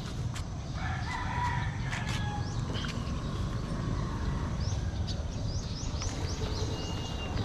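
A rooster crowing once, about a second in, and later a quick run of short, high chirps from a small bird, over a steady low background rumble.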